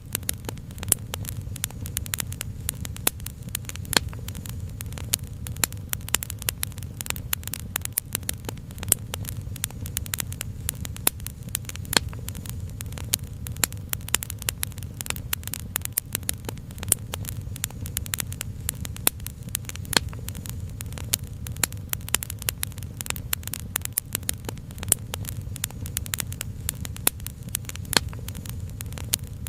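Wood fire crackling: many small, irregular snaps and pops over a steady low rumble.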